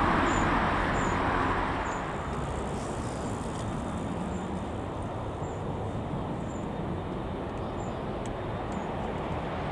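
Distant jet aircraft engine noise, a steady rumbling hiss that fades over the first two seconds and then holds lower. A faint high chirp repeats about once or twice a second.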